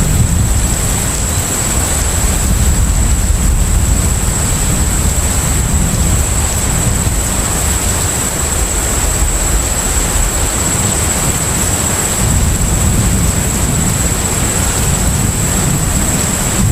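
Steady low rumble of a container ship under way at sea, with a constant high-pitched tone over it.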